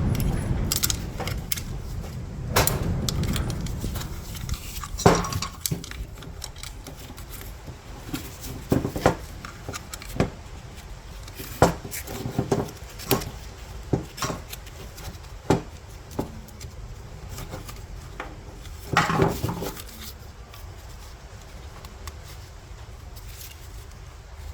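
Parts and hand tools being handled during a fuel pump replacement: irregular sharp clicks, clinks and knocks, a dozen or so scattered strikes, with a short rattling cluster a few seconds before the end and a low handling rumble in the first few seconds.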